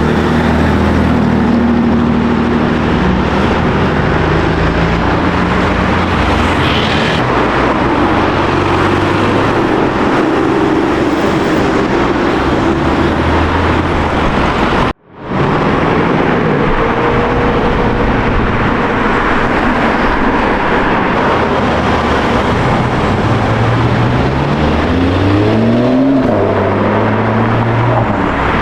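Car engines running and pulling away past the microphone on a street, with the engine note rising as one accelerates near the end. The sound drops out suddenly for a moment about halfway.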